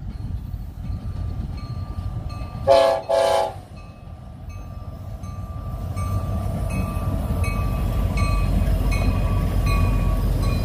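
Diesel locomotive air horn sounding two short blasts, followed by the low rumble of the approaching train growing steadily louder.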